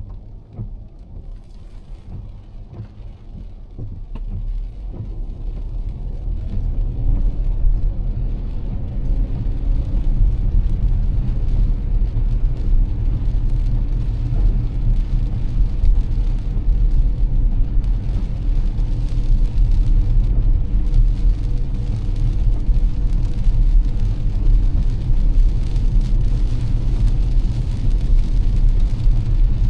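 Car driving on a rain-soaked road. A low road and engine rumble is quieter at first, then builds over the first several seconds as the car picks up speed. It settles into a steady rumble with a hiss of tyres on wet pavement and rain.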